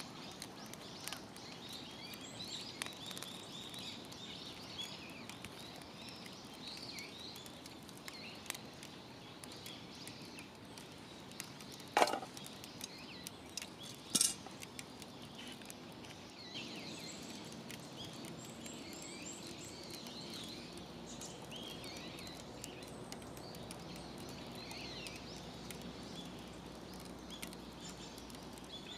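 Outdoor ambience with birds chirping on and off, faint scattered crackles, and two sharp clinks about twelve and fourteen seconds in.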